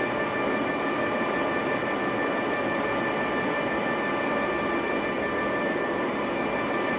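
A lathe running steadily: an even mechanical drone with a steady high whine over it.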